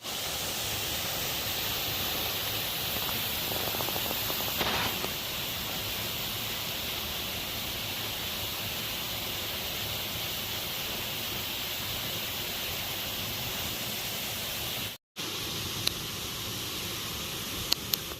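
Steady rushing of a waterfall, with a brief break about three-quarters through and a few sharp clicks near the end.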